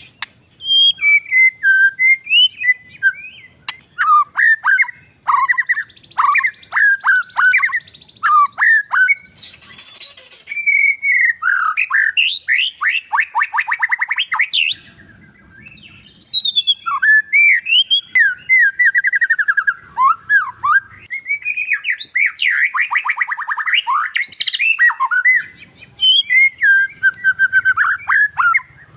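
Oriental magpie-robin (kacer) singing loudly and non-stop: a long, varied run of whistles, sharp chirps and fast trills in quick phrases with short gaps. This is the 'gacor' full song used as a lure to set other kacer singing.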